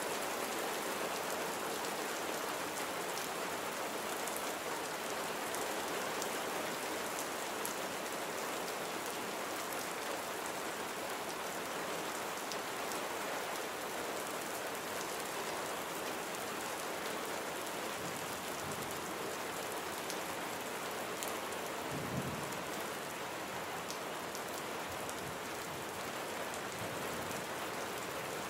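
Steady rain falling on surfaces, an even hiss with many fine drop ticks. A single brief low thump about three-quarters of the way through.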